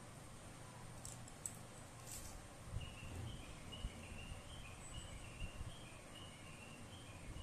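Faint high chirping, a small bird calling in quick repeated notes, starting a few seconds in over a low hum, with a few light clicks before it.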